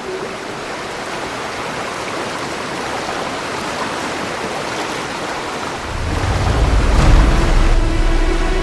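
Rainstorm sound effects: a steady hiss of rain, then a deep rumble of thunder about six seconds in. Music tones come in near the end.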